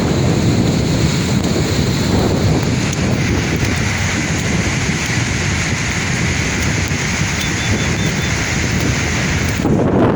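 Sea waves washing on the shore in a steady, continuous rush, with wind rumbling on the microphone.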